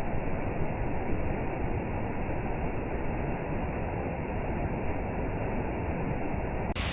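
Steady rushing of a fast-flowing beck, Hardraw Beck, running over rocks, with a dull, even rush; it changes abruptly just before the end.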